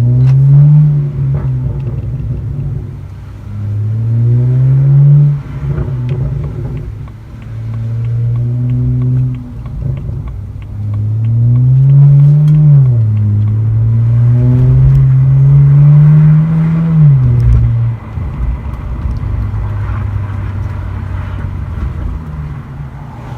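BMW 335i's N54 twin-turbo inline-six running through a muffler delete, accelerating hard several times with its pitch climbing on each pull and dropping sharply at the gear changes. About eighteen seconds in it eases off to a steadier, quieter cruise.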